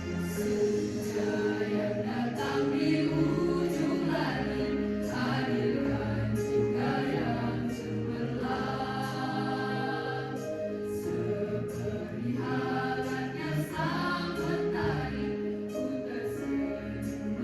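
Choir singing a slow song in several voice parts, with instrumental accompaniment.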